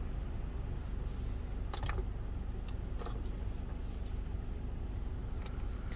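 Ryko SoftGloss XS 2 automatic car wash machinery running with a steady low hum, with two brief taps about two and three seconds in.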